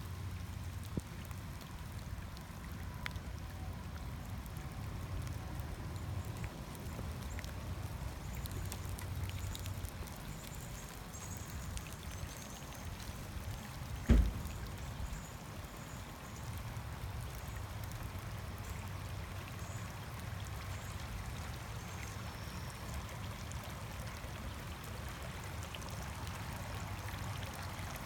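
Steady rain with water running and trickling. A single sharp thump sounds about halfway through.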